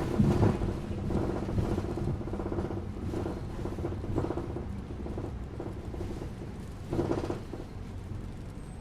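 Bus interior ambience: the steady low rumble of the engine and road noise while riding, with a louder surge of rumble near the start and another about seven seconds in.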